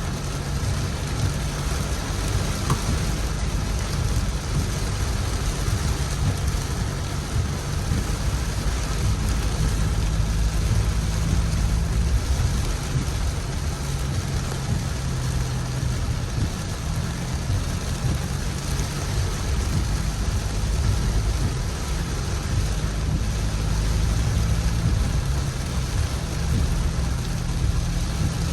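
Steady rain falling, an even hiss with a deep continuous low rumble underneath.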